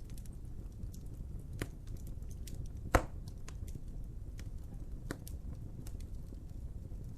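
Wood fire crackling over a low steady rumble, with scattered sharp pops and one loud pop about three seconds in.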